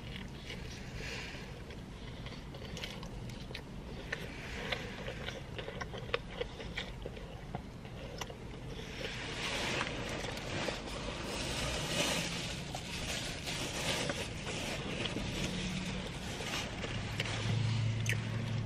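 Close-up eating sounds: biting and chewing a soft-bread sub sandwich, with wet mouth clicks and smacks over a low steady rumble. A low hum comes in near the end and is the loudest part.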